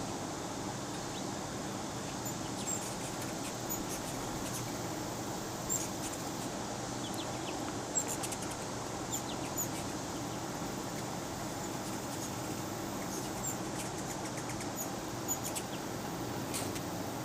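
Outdoor summer ambience: a steady low hum with scattered brief, high-pitched chirps and ticks.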